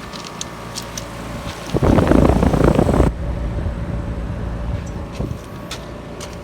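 Outdoor heat pump condensing unit running in cooling mode: a steady hum from the compressor and condenser fan. About two seconds in, a loud rush of noise lasts about a second.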